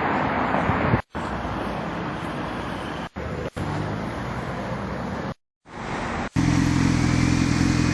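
Road traffic noise in several short clips, cut off abruptly between them. In the last clip, from about six seconds in, a vehicle engine runs steadily close by.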